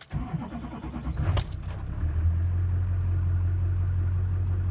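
Duramax diesel pickup engine cold-started in single-digit temperatures with its block heater plugged in. The starter cranks for about a second, the engine catches quickly, then settles into a steady idle.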